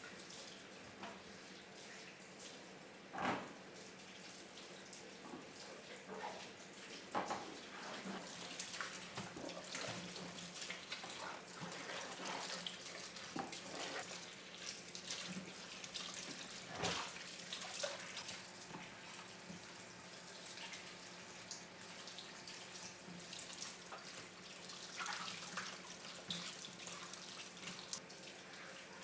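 Water running from a tap into a sink, with irregular knocks and clatter of things being handled in it; the loudest knocks come about 3, 7 and 17 seconds in.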